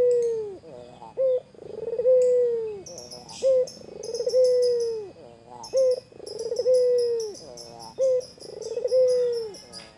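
White Barbary dove (ringneck dove) cooing over and over: each phrase is a short clipped note followed by a long rolling coo that holds and then falls, repeating about every two seconds, four to five times.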